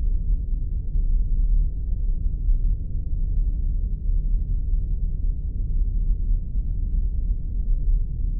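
Synthesized spaceship engine hum: a steady deep drone with its weight down in the bass, and faint scattered crackles above it.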